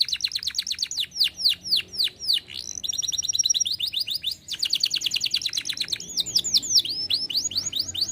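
Canary singing a continuous song. Very fast buzzy trills alternate with runs of repeated downward-sliding whistled notes, changing phrase every second or two.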